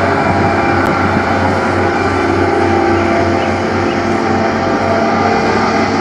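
A motor running steadily, with a low hum and several steady whining tones above it.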